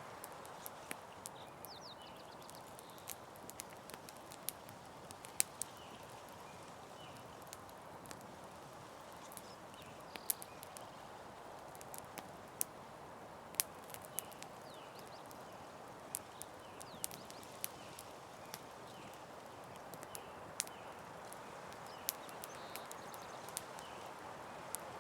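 Campfire crackling, with sharp irregular pops and snaps over a soft steady hiss.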